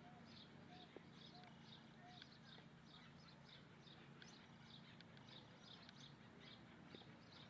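Faint bird calls: a steady series of short high notes repeating about three times a second, with a few soft, lower arched notes in the first two seconds.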